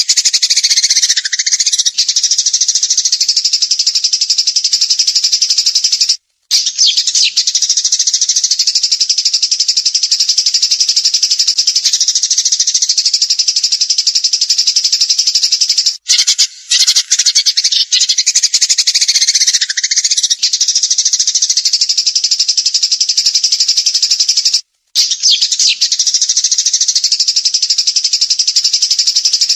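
A songbird's rapid, high-pitched trill ('tembakan') going on without a pause for several seconds at a time, each bout opening with a short rising note. It repeats as a looped recording, broken by brief silences about 6, 16 and 25 seconds in.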